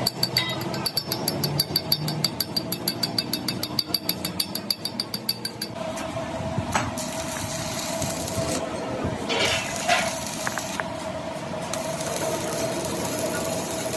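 Fast, even metal tapping, several strikes a second, for about the first six seconds. Then a steady machine hum with a single held tone, such as a lathe running, with a few scrapes over it.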